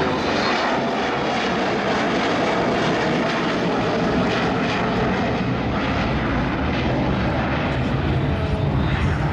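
Jet engines of a Boeing 727 freighter flying its display pass: a steady, loud jet noise that grows heavier and deeper in the low end over the last couple of seconds.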